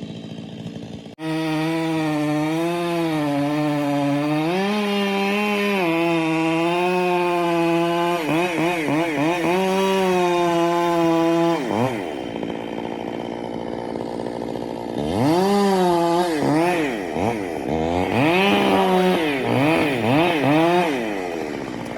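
Two-stroke chainsaw running, starting abruptly about a second in and wavering up and down in pitch as it cuts, then easing back to a lower steady speed. Near the end it is revved up and down quickly several times.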